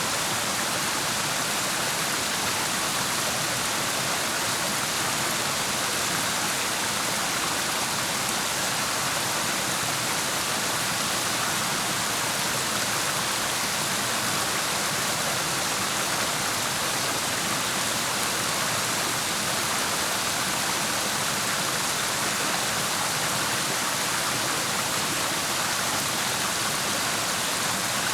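Steady rush of flowing water in a clear mountain stream, an even hiss that does not change.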